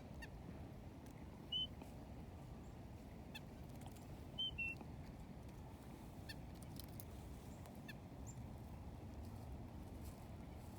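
Small songbirds giving short, high chirps: one about a second and a half in, then two in quick succession a few seconds later, over a steady low background noise.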